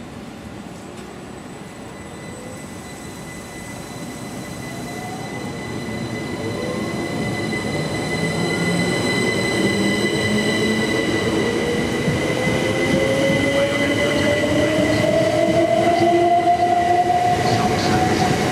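Southern electric multiple-unit passenger train approaching and drawing into the station, growing steadily louder. A steady high wheel squeal runs over the rumble, and a lower whine slowly rises in pitch.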